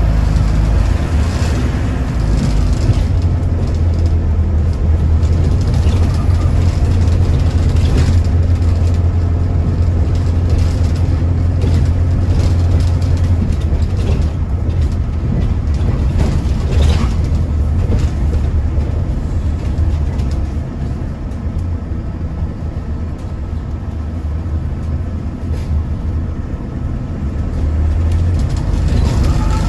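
Double-deck bus engine and road noise heard from inside the passenger cabin while under way: a steady low drone, with a fainter higher hum that drops away about halfway through and the whole sound easing off somewhat near the two-thirds point.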